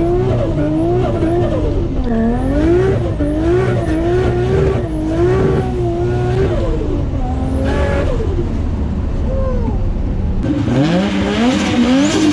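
Car engine revving up and down over and over, about once a second, with a quicker series of rising revs near the end.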